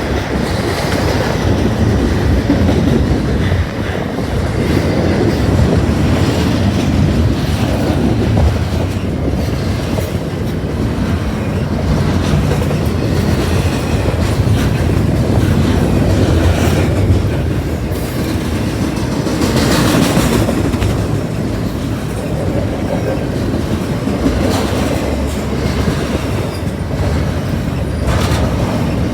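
A train rolling past, with a steady, heavy rumble and scattered sharp clacks of wheels over rail joints.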